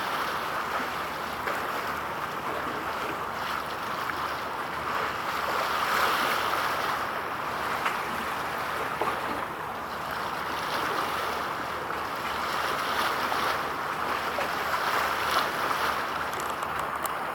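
Steady rush of sea and wind, swelling and easing every few seconds.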